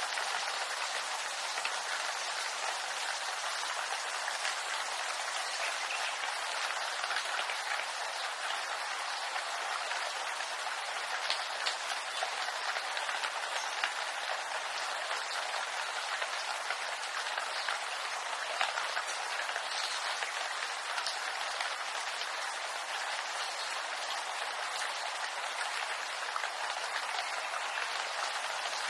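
Steady rain falling on bamboo leaves: an even hiss of many drops, with an occasional sharper drop standing out.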